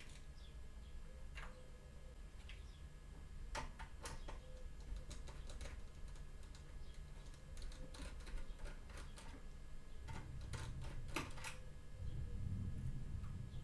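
Irregular light clicks and taps of hands working on a computer's small parts, with a low rumble of handling near the end.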